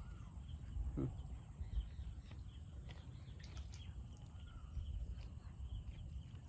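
Outdoor rural ambience: a steady low rumble of wind on the microphone with a few faint bird chirps and scattered light clicks.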